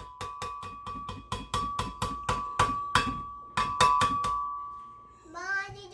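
An edited-in sound effect: rapid, evenly spaced clicks, about five a second, over a steady high tone that fades out near the end.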